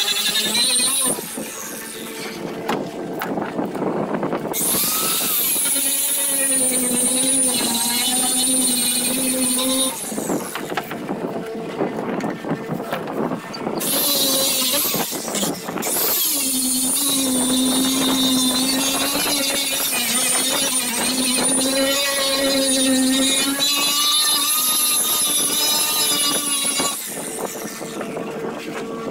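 Power grinder grinding on a fiberglass boat. It runs in two long spells with a rougher, broken stretch between them, and its steady whine wavers in pitch as it bears on the surface.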